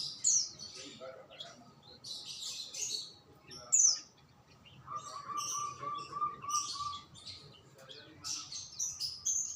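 Songbirds chirping and calling: quick high chirps and sharp falling notes throughout, with a run of about eight lower, evenly repeated notes in the middle.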